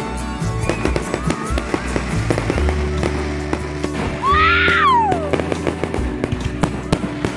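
Aerial fireworks bursting in a rapid run of sharp bangs and crackles, heard under background music with long held bass notes. About four seconds in, a whistling tone rises and then falls away over about a second.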